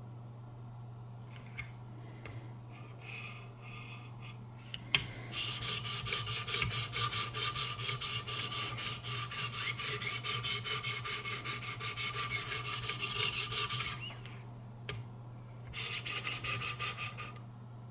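Knife blade being stroked against the 600-grit abrasive of a Wicked Edge guided sharpener: a rapid, rhythmic gritty scraping. It starts faintly, gets much louder about five seconds in after a click, pauses briefly near the end, then picks up again for a short run of strokes.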